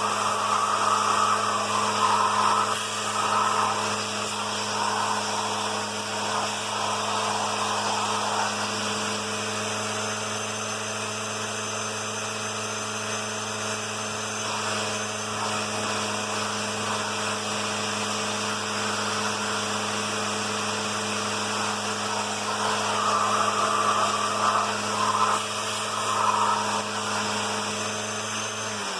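Eureka Victory vacuum cleaner running steadily with its hose in use, a constant motor hum under an uneven rushing of air and debris that swells near the start and again a few seconds before the end. The motor is switched off at the very end and its pitch falls as it winds down.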